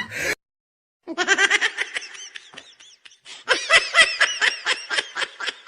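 High-pitched laughter in a quick string of ha-ha pulses, starting about a second in after a moment of dead silence. It fades briefly around the middle, then comes back louder.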